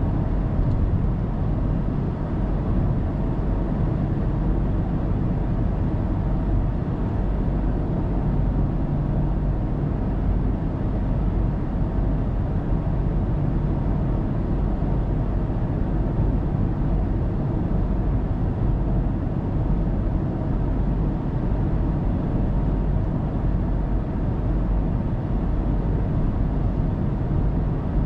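Steady road and tyre noise with engine rumble from a car cruising on an expressway, recorded from inside the cabin by a dashcam.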